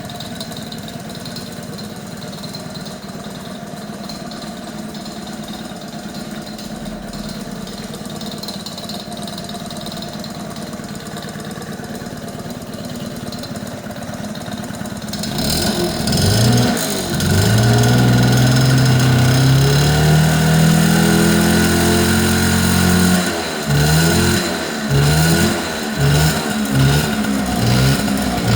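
1979 Honda Caren AB04 scooter's small engine idling steadily, then free-revved: about 15 seconds in it rises into one long rev held for several seconds and drops back, followed by a quick series of about six short throttle blips.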